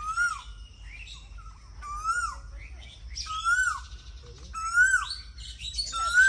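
Birds calling: one bird repeats a short call that rises then drops, about every second and a half, five times, while others chirp higher over it.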